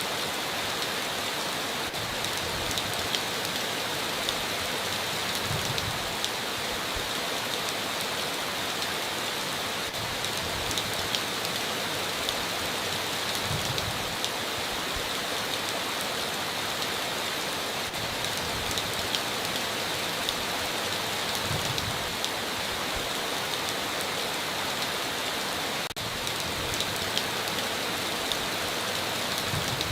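Steady heavy rain drumming on a tin roof, with a dense patter of individual drops and no thunder.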